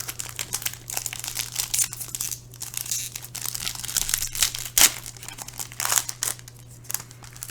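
Plastic trading-card packaging crinkling and rustling as it is handled, with irregular crackles and one sharper click about five seconds in, over a steady low hum.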